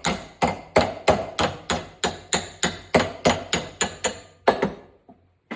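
Hammer striking a piece of steel cutlery to bend it cold, without forge heat: quick steady blows about three a second with a metallic ring, stopping about four and a half seconds in, then one more blow near the end.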